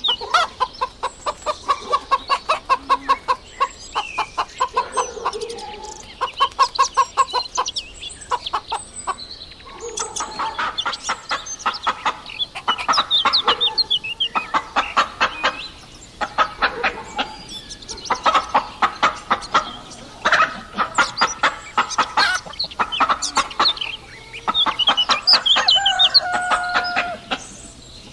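Chickens clucking in quick runs of short, rapid clucks, with a few longer drawn-out calls near the end.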